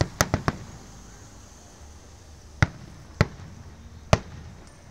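Aerial fireworks shells bursting as sharp bangs: four in quick succession right at the start, then three single bangs spaced out over the next couple of seconds.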